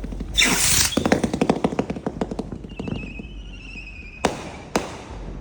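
Strobe rocket fireworks: a rocket launches with a loud whoosh, then rapid crackling pops of strobes for about two seconds and a brief wavering whistle. Near the end come two sharp bangs about half a second apart.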